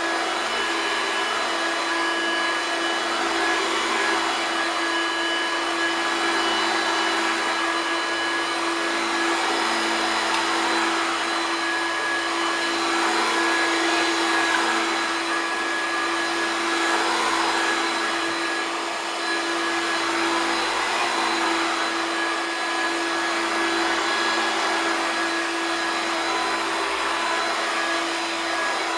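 1993 Hoover TurboPower 2 U2464 upright vacuum cleaner running steadily at full power, a constant motor whine over a loud airflow hiss.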